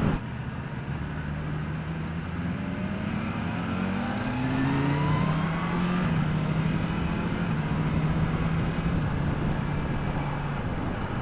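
BMW S1000R's inline-four engine on its stock exhaust under gentle acceleration, the revs climbing smoothly for a few seconds, then holding steady at a cruise and dropping back near the end. Wind noise runs underneath on the rider's microphone.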